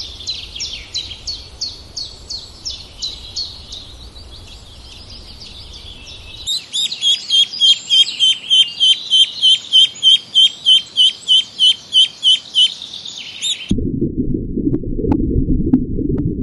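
A small bird chirping in quick repeated high notes, about three a second at first, then louder and faster at about four a second. Near the end it cuts off abruptly to a low rumbling noise with faint ticks.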